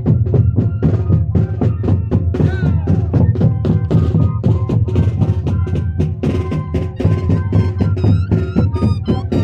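Moseñada band playing: large Andean duct flutes holding sustained notes over a steady, dense beat of drums.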